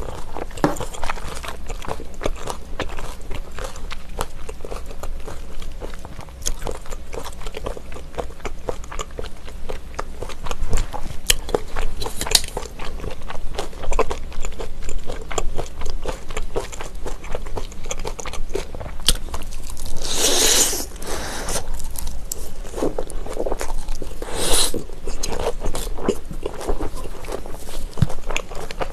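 Close-miked chewing of raw trout slices and shredded vegetables in chili dressing: steady wet, crunchy chewing with many small mouth clicks. A few louder noisy bursts stand out about twelve, twenty and twenty-four seconds in.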